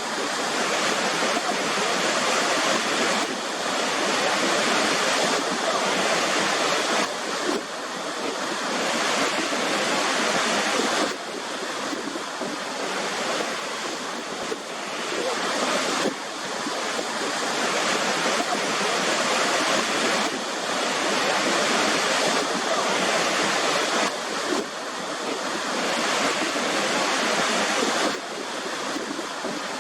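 Waterfall: a steady, dense rush of falling water, with a few sudden small shifts in level.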